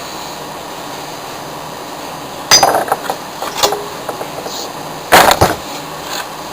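Three sharp metal knocks and clanks of tools working on a Steelcase office chair's gas-lift cylinder, the loudest about five seconds in.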